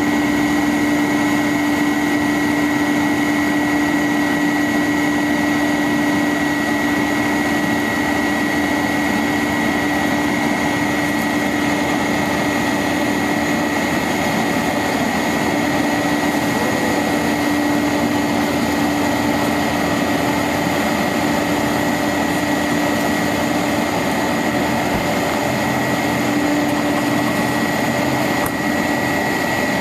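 International 4900 bucket truck's engine running steadily, with a constant high whine over a lower steady hum.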